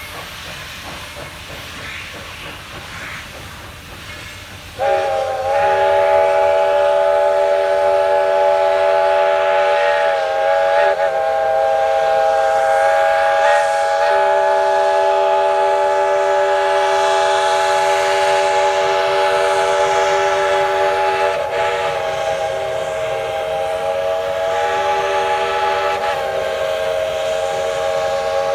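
Steam hissing from a steam locomotive, then about five seconds in its multi-tone chime whistle, No. 190's original White Pass whistle, opens up suddenly and is held in one very long blast, wavering briefly in pitch a few times.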